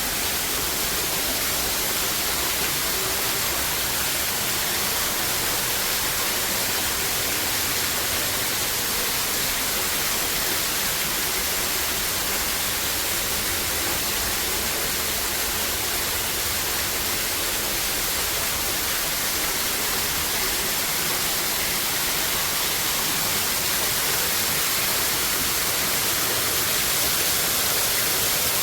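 A steady, even hiss that holds level, with no distinct events.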